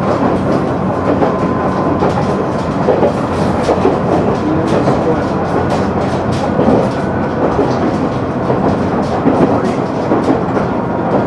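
KiHa 100 diesel railcar running along the track, heard inside the car: a steady rumble of wheels on rail with light clicks scattered through it.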